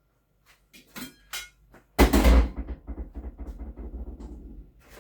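Kitchen clatter while dinner is being dished up: a few light knocks, then a loud clatter about two seconds in, followed by a quick rattling that dies away over the next couple of seconds, and one more knock at the end.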